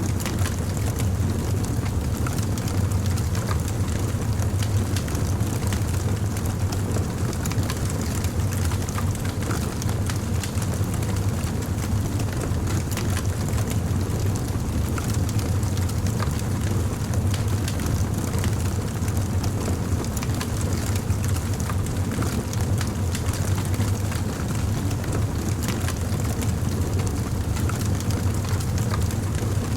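A fire crackling, with many small irregular pops over a steady low rumble.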